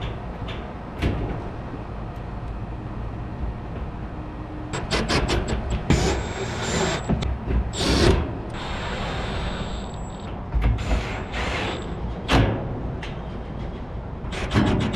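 Metal panel work on a rooftop HVAC unit: knocks and clunks with bursts of rapid clicking as the panel is fitted and fastened back on, over a steady low hum.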